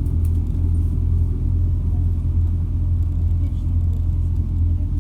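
MAZ-206 city bus heard from inside the passenger cabin while riding: a steady low engine and drivetrain drone with road rumble.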